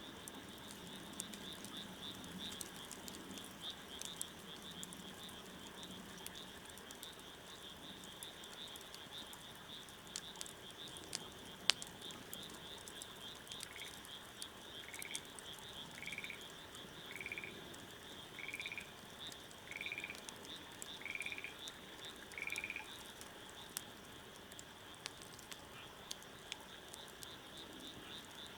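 Wood fire crackling with scattered small pops and one sharp pop near the middle, over a continuous high trilling animal chorus. About halfway in, a run of eight short rising calls comes about once a second.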